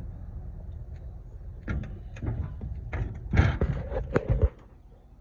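A run of knocks and clunks, loudest about three and a half seconds in, as sections of 3-inch concrete pump hose are pulled off the pump truck, over a low steady rumble.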